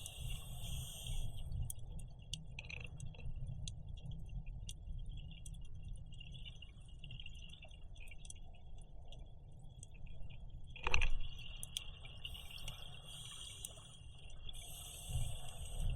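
Underwater sound of a scuba dive: a diver's regulator exhaling bubbles in hissing bursts at the start and twice near the end, over a low rumble and scattered crackling clicks, with one sharp knock about eleven seconds in.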